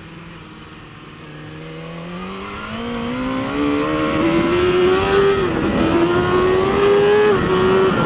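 BMW S1000RR's inline-four engine accelerating hard, its pitch climbing steadily and the sound growing louder, with two brief drops in pitch as the rider shifts up, about five seconds in and again near the end.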